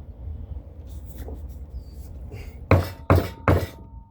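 Three quick hammer taps on the metal float bowl of a small-engine carburetor, with a faint ring after each. They are knocking the bowl's bottom flat again after an over-torqued drain plug pushed it up and made it leak fuel.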